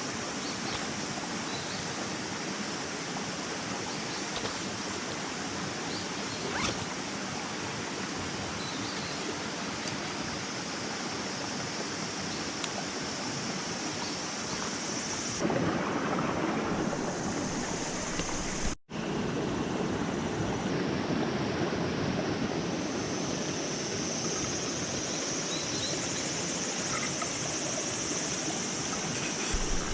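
Steady outdoor rushing noise with no clear events; it changes abruptly and grows a little louder about halfway, with a split-second dropout just after.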